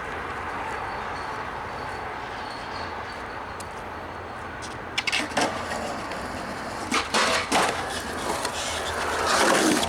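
Skateboard wheels rolling on concrete, a steady rumble, with several sharp clacks of the board about halfway through and again a couple of seconds later.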